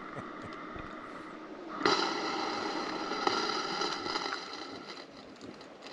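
Electric drip coffee maker brewing: its hissing and sputtering comes in suddenly about two seconds in, holds for about three seconds, then fades.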